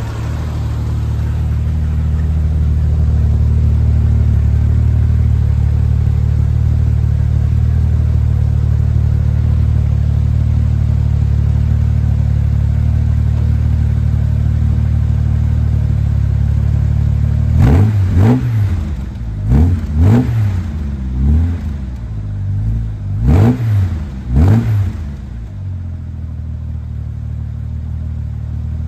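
1969 Jaguar E-Type's straight-six engine idling steadily with the choke fully off, then blipped several times in quick succession, each rev rising and falling back, before settling to idle again.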